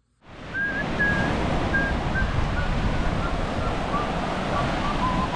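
Surf on a beach mixed with wind buffeting the microphone: a steady, dense rush that starts a moment in. A faint thin tone steps slowly down in pitch over it.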